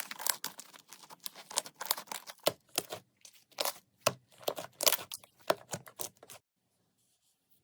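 Slime being pressed and squished by hand, giving a dense run of crisp crackling clicks that thins to separate sharp pops and stops about six seconds in.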